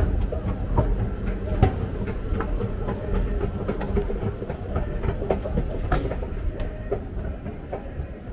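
BART train car running along the track: a steady low rumble with irregular clicks and clacks from the wheels and car body, growing somewhat quieter toward the end.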